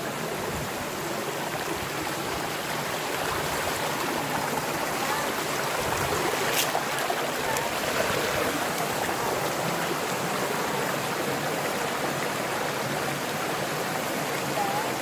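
Steady rushing of a mountain stream's flowing water, with one brief sharp click about six and a half seconds in.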